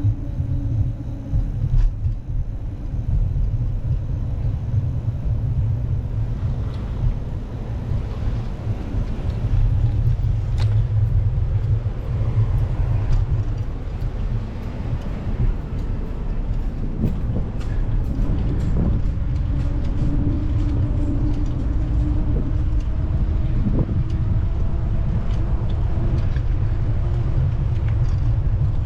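Steady low rumble of wind and road noise on the microphone while riding a bicycle, with a vehicle engine hum passing near the start and again from about twenty seconds in.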